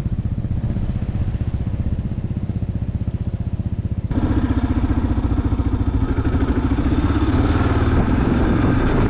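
Kawasaki KLR 650's single-cylinder engine running with a steady pulse. About four seconds in it gets abruptly louder and fuller as the bike is ridden through a river crossing.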